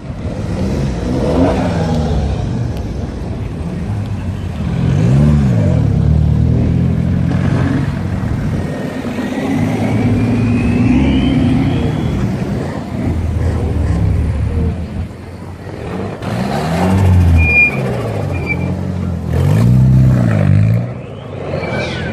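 Modified cars driving away one after another, their engines revving and accelerating, the pitch climbing and falling several times.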